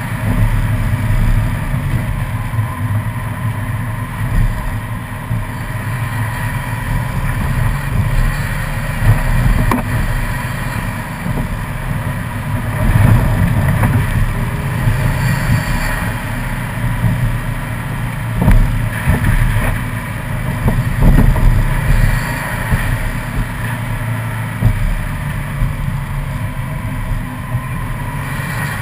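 Subaru WRX's turbocharged flat-four engine running steadily under way, with tyre and road noise over wet, slushy pavement. A few short thumps come through in the second half.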